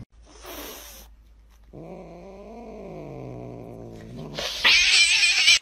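Cat yowling in a long, low, growling call that rises and falls in pitch. About four and a half seconds in, a loud shrill scream follows.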